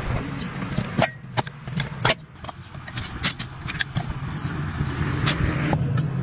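Scattered sharp clicks and knocks of repair work over a steady low hum.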